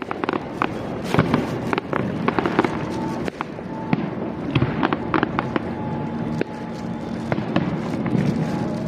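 Fireworks display going off close by: a rapid, irregular series of sharp bangs and crackles, with faint steady tones underneath.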